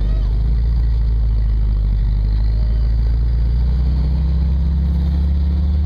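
Turbocharged 134 F-head four-cylinder engine of a CJ5 Jeep running under way with a steady low drone; its pitch creeps up a little in the second half.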